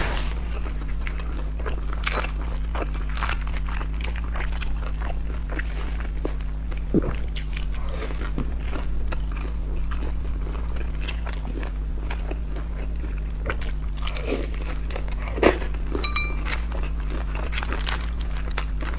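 Close-miked chewing of crispy pan-fried dumplings: crunching and mouth clicks, with one louder click about fifteen and a half seconds in, over a steady low hum.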